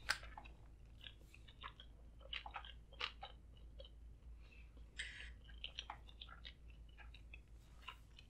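Close-miked chewing of a mouthful of sushi roll: faint, irregular wet mouth clicks and soft crunches from the crispy fried topping.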